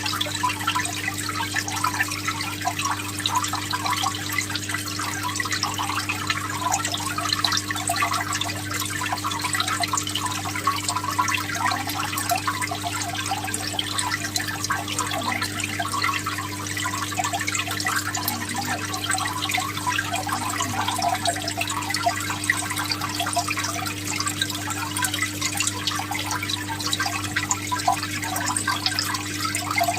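Aquarium water trickling and splashing steadily, as from a filter outflow or air bubbles breaking the surface, over a steady low hum from the tank's pump.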